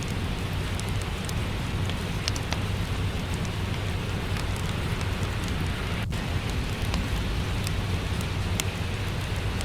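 Steady rain with a fireplace crackling, sharp little pops scattered through it over a low, even rumble.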